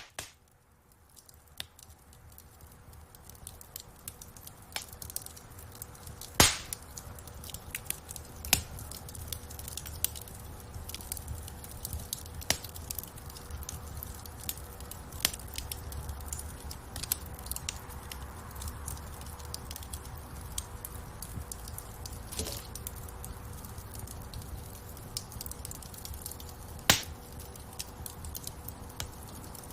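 Wood fire crackling in a fireplace: irregular small pops and snaps over a low, steady rumble of flames, with two louder pops about six seconds in and near the end. The fire sound fades up from silence over the first few seconds.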